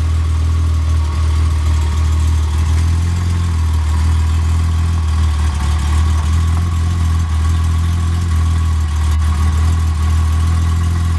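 BMW M20B25 2.5-litre straight-six of a 1989 E30 325i idling steadily, heard from underneath the car by the exhaust. The engine is still breaking in, and its valves sound bad by the owner's own account.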